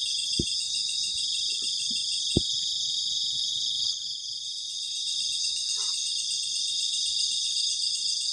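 A dense night chorus of crickets, a steady high-pitched chirring with a fine rapid pulse. Two sharp clicks sound in the first few seconds.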